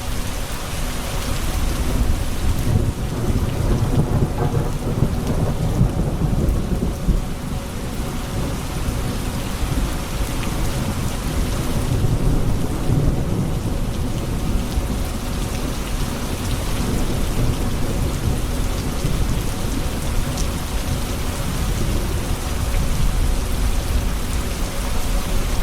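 Thunderstorm: steady rain falling, with low rolling thunder that swells about three seconds in and again near the middle.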